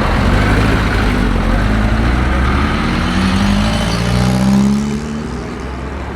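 A car engine accelerating, its note rising for a couple of seconds, then dropping off in level about five seconds in.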